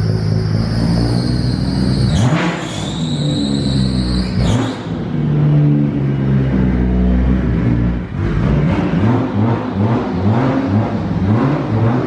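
Nissan Skyline R32's engine running just after starting, with a high whine over the engine note for the first few seconds. It is then revved in a quick series of short throttle blips, the pitch rising and falling about twice a second.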